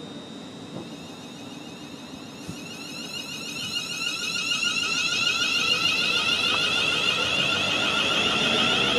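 Approaching train: a high-pitched whine of several steady tones that grows steadily louder as it nears.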